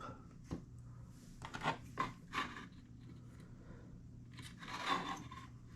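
Small handling sounds of a begleri bead and hand tool being lined up for drilling out the bead's hole. There are a few short clicks and scrapes, then a longer scrape about five seconds in.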